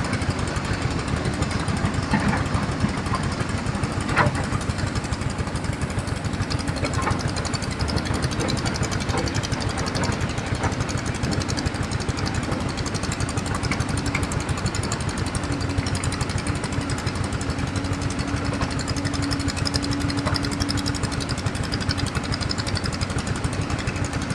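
Excavator diesel engine running steadily with a fast, even chugging. A single sharp knock comes about four seconds in, and a steady tone sounds over the engine for several seconds past the middle.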